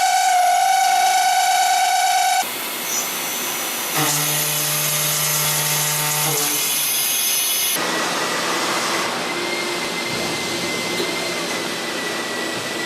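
5-axis CNC milling machine running and cutting: a steady, pitched spindle whine with overtones, then noisier cutting sound and later a steady high tone over a hiss. The sound changes abruptly about two and a half, four and eight seconds in.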